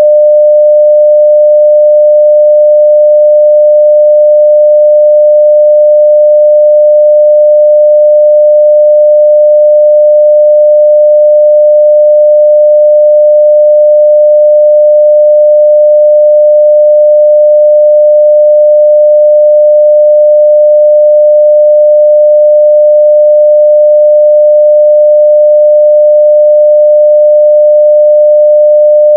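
Continuous 600 Hz sine-wave test tone at full level (0 dB): one steady, pure pitch that does not change.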